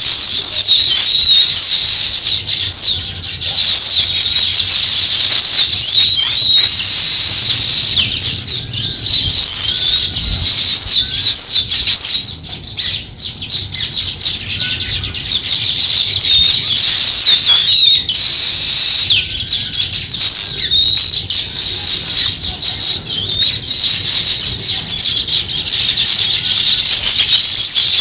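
House sparrows chirping continuously, with dense, overlapping short chirps.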